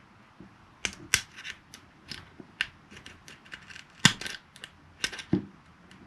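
Glock pistol's slide being worked back onto the frame: a dozen or so irregular sharp clicks and clacks, the loudest about four seconds in.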